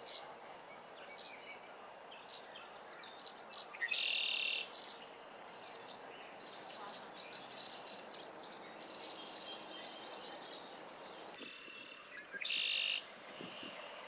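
Small wild birds calling and chirping over a steady background hum, with two loud, brief calls, one about four seconds in and one near the end.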